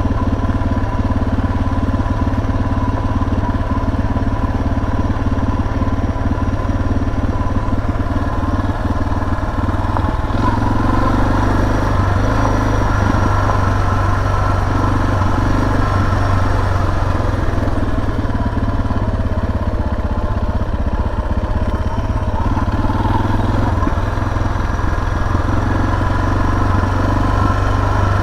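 Suzuki DR650's single-cylinder engine running steadily under way on the ride downhill, its note shifting a few times.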